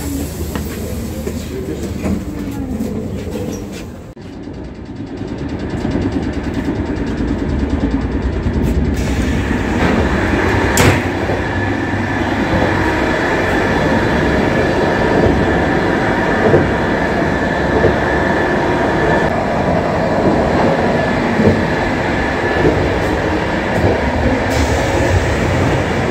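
Passenger train running, heard from inside a carriage: a steady rumble and rattle that dips about four seconds in, then grows louder. There is one sharp clack near the middle and a thin high squeal through the middle part.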